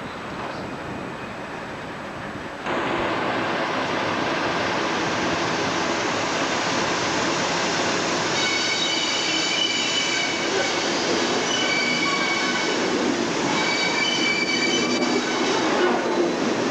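A train running on the rails, the noise jumping suddenly louder about three seconds in. From halfway on, a high metallic squeal from the wheels comes and goes three times.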